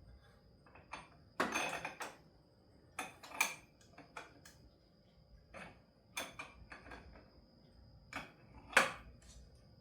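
Metal hand tools and a puller clinking and clanking as they are fitted and worked against the part, in scattered knocks and rattles, the loudest near the end.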